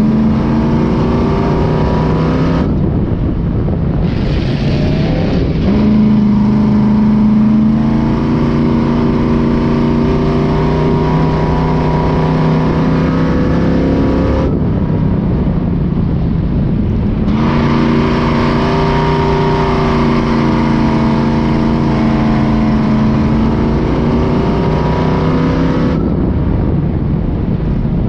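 Racing truck's engine running at high revs under hard throttle. It eases off briefly three times, about every twelve seconds, then revs back up each time.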